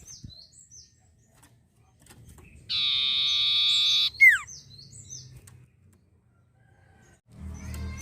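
Common iora singing: short high falling chirps, then a loud rasping trill held for over a second about three seconds in, ending in a sharp downward-sliding whistle, with more high chirps after.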